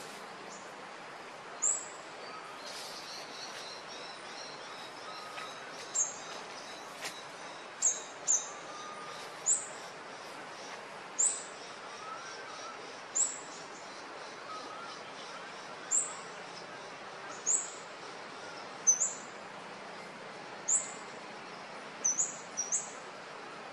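A bird calling with short, high chirps that fall in pitch, repeated about every one to two seconds, over a steady background hiss.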